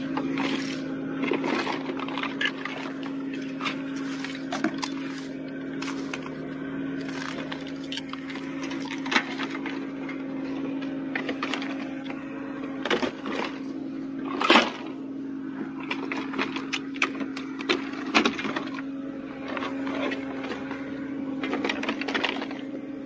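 Metal clanks and knocks from a recovery truck's underlift arms being handled and set under a car, a series of sharp knocks with the loudest about two-thirds of the way through. A steady hum runs underneath.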